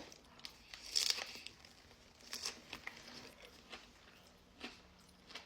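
Faint, scattered crinkling and crunching of crisp pistachio kunafa on a chocolate-dipped strawberry being handled and eaten, in short irregular bits.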